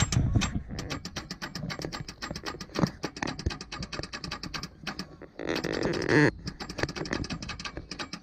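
Starter motor straining against a seized engine with a broken piston, making rapid clicking as it fails to turn the engine over. A brief burst of hiss comes a little after five seconds in.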